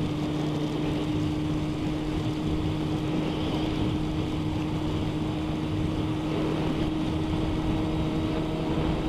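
Motorcycle engine running at a steady cruise, a constant drone with wind and road noise over it.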